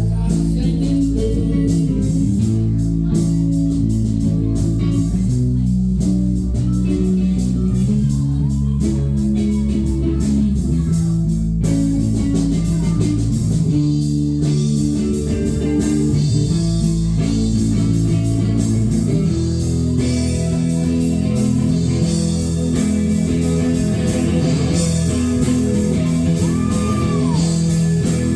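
A live band playing a blues-rock song, led by guitar over a bass line, with little or no singing.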